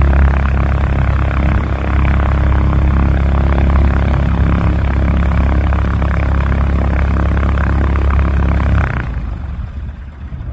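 Cessna 172's air-cooled four-cylinder engine and propeller running at close range, a loud steady drone that drops off sharply about nine seconds in.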